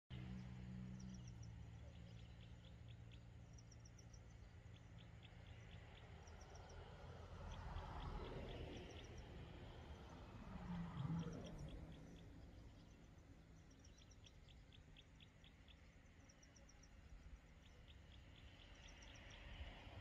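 Faint outdoor ambience with a small bird chirping short, rapid trills, repeated every second or two, over a low background rumble that swells briefly about eight and eleven seconds in.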